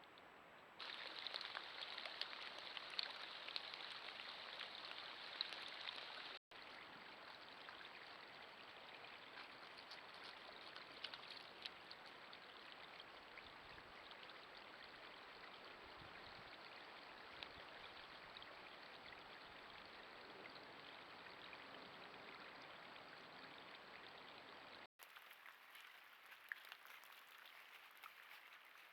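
Faint, steady patter of precipitation falling outdoors, many small ticks over a hiss, heard through a trail camera's microphone. The sound changes abruptly at cuts about a second in, about six seconds in and near the end.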